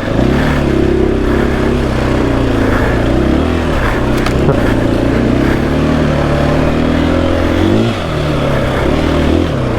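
KTM EXC-F 500 dirt bike's single-cylinder four-stroke engine running under throttle on the trail. Its pitch falls and climbs again about a third of the way in and twice near the end.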